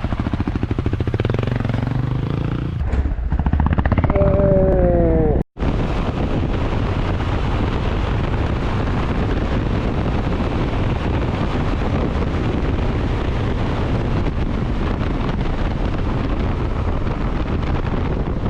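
Motorcycle engine running under way, its pitch sliding down a few times around four seconds in. After a sudden cut about five and a half seconds in, steady wind rush on the microphone covers the engine.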